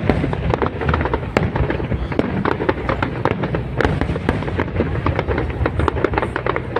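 Fireworks display with a rapid, continuous stream of sharp cracks and pops over a low rumble.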